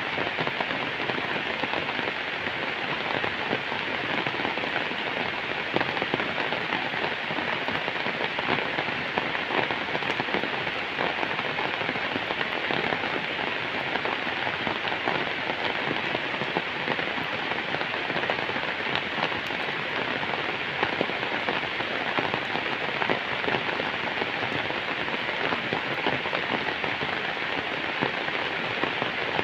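Steady rain falling on bamboo leaves and a wet road: a dense, even patter of drops that doesn't let up.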